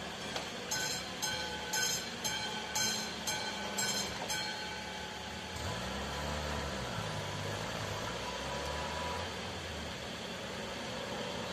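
Level-crossing warning bell striking about twice a second, which stops after about four seconds. A diesel passenger train then runs over the crossing, its engine and wheels taking over as the main sound.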